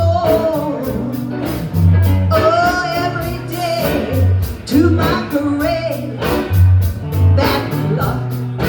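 Live blues band playing, with bass, drums keeping time on the cymbals and a wavering lead melody line over the top.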